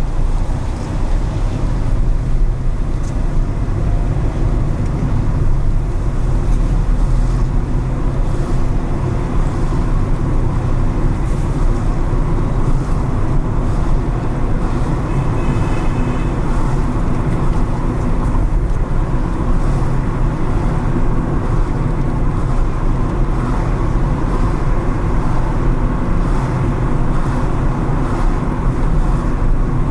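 A car driving along city streets, with a steady low road and engine rumble.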